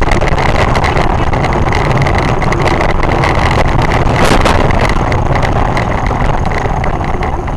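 Loud, steady noise of a moving vehicle with wind buffeting the microphone, with a steady high whine running through it.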